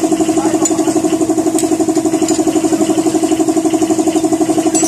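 A steady mechanical hum, like a small engine or motor running, pulsing rapidly and evenly, with a few faint light clicks.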